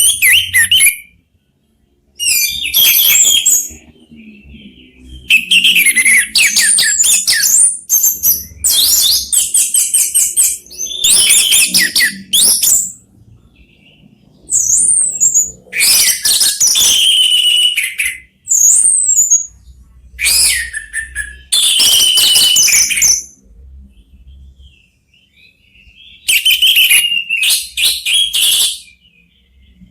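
Orange-headed thrushes singing in turn, answering one another. Their song comes in loud bursts of fast, varied, high whistles and chattering trills, each a second or two long, with short pauses between bursts.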